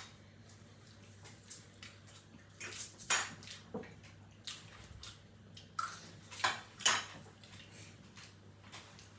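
Cutlery clinking and scraping against dishes while eating, in scattered short strokes, the loudest about three seconds in and twice near seven seconds, over a faint low hum.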